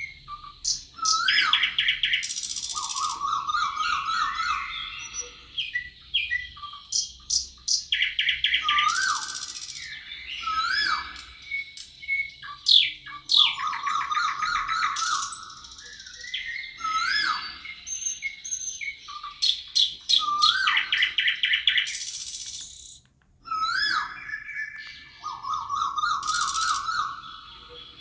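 Songbirds singing: bright phrases of rapid trills, chirps and rising whistles, repeated every five to six seconds.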